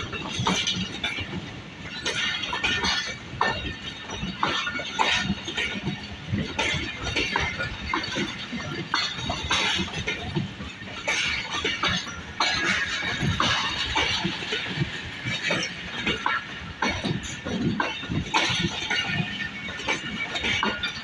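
Passenger train running past close by, its wheels and carriages clattering and rattling on the track in a dense run of irregular metallic clanks over a steady rumble.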